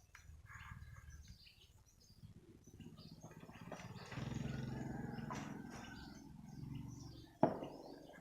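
Birds chirping outdoors, under a low rumble that swells through the middle and fades. A single sharp knock comes near the end.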